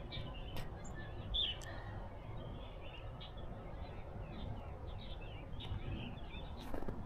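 Small birds chirping: short, high calls scattered throughout over a steady low background hum. A few footsteps begin near the end.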